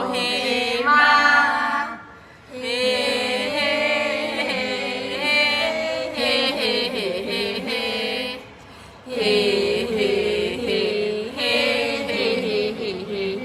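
Thai barge-song poetry (kap he ruea) chanted to its traditional melody: voices drawing out the verse in long, wavering sung phrases, with two brief pauses for breath.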